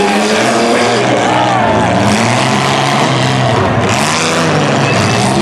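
Several demolition derby cars' engines revving and running at once, their overlapping notes rising and falling as the cars accelerate around the dirt arena.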